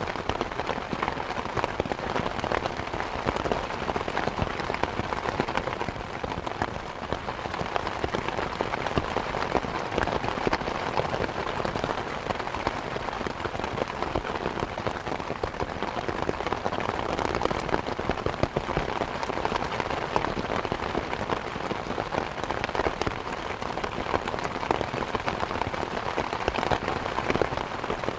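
Steady rain falling, a dense even patter of raindrops on surfaces with many small individual drop ticks.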